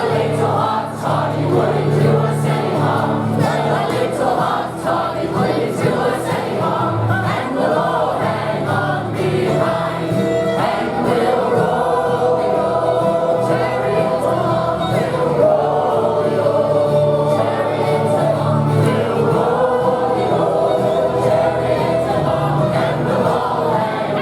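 A group of voices singing a song together, held and gliding sung notes over steady low notes.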